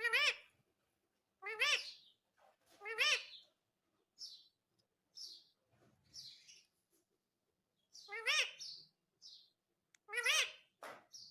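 Indian ringneck parrot calling: five loud calls, each rising and falling in pitch, with short high chirps in between.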